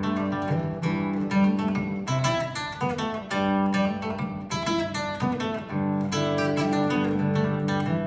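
Acoustic guitar playing strummed and plucked chords in Peruvian music.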